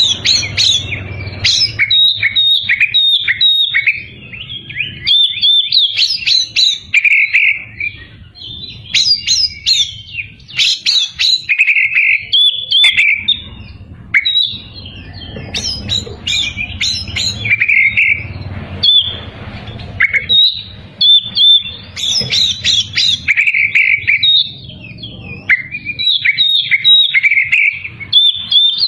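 Oriental magpie-robin (kacer) singing vigorously: a long run of varied phrases of clear whistles, quick chirps, trills and harsher notes, broken by brief pauses, over a low background hum.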